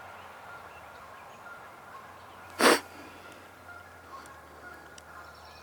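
A single brief, loud burst of noise close to the microphone about two and a half seconds in, over faint, scattered bird calls in the woods.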